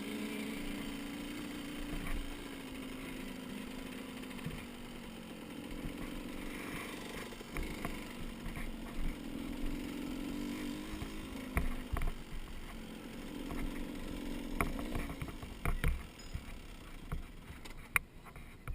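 Dirt bike engine running in the distance, its pitch slowly rising and falling as it is ridden around the track, with scattered clicks and knocks close by.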